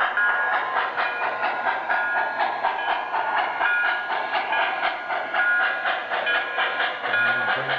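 Lionel model train running around its track: rapid, even clicking of the wheels over the rail joints, with a high whine that comes and goes.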